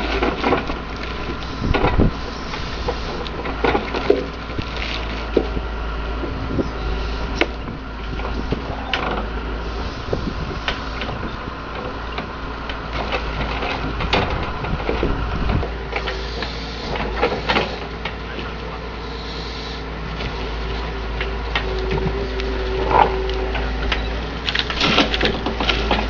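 Excavator fitted with a log grapple at work: the engine and hydraulics run steadily under the wooden knocks and clunks of logs being gripped and dropped. A hydraulic whine rises briefly about 23 seconds in.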